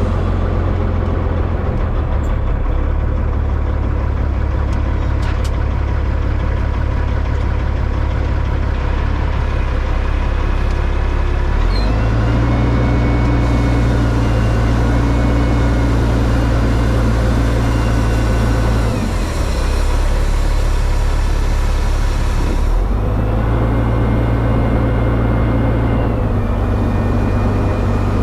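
Heavy diesel truck engine running on the road under way, its note changing abruptly several times as the revs and gears change.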